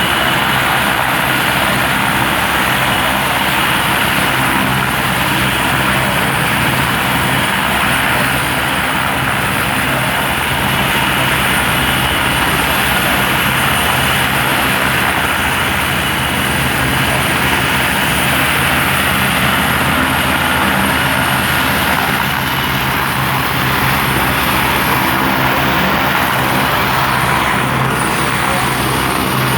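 Helicopter in flight: a steady, loud engine and rotor drone with a constant high whine over it.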